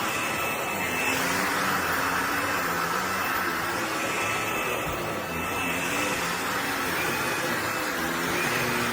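Bissell PowerClean FurGuard upright vacuum cleaner running steadily: a rush of air with a thin, high whine over it.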